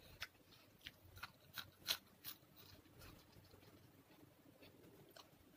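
Quiet close-up eating sounds: a person chewing with a series of short, wet mouth clicks, most of them in the first two seconds, then softer.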